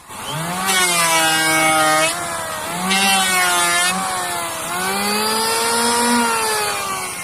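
A passing motor vehicle's engine accelerating through the gears: its pitch climbs, drops at each shift about two and four seconds in, climbs again, then falls away as it moves off.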